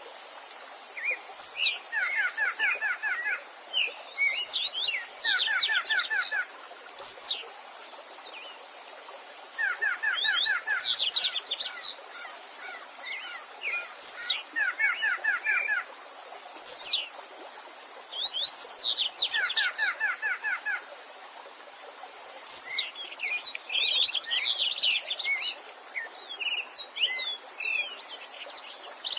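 Several songbirds of different species singing at once: sharp high notes that sweep down in pitch, fast chattering trills and jumbled warbled phrases, coming every second or two. They sing over the faint steady rush of a stream.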